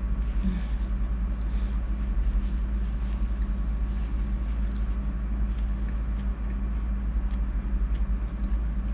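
A steady low hum, with a few faint soft noises that may be chewing on battered squid.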